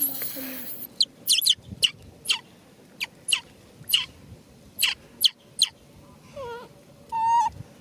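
Baby macaque crying: a string of short, sharp, high-pitched squeals falling in pitch, one or two a second, then wavering whimpering calls near the end.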